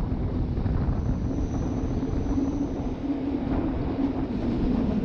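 RhB ABe 8/12 'Allegra' electric railcar running along the line: a steady rumble of wheels and running gear with a low, wavering hum.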